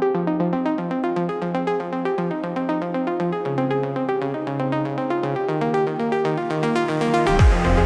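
Melodic house / synthwave music: a rapidly pulsing synthesizer arpeggio over held chords, with the bass note shifting twice. Near the end a steady kick drum and a bright cymbal swell come in.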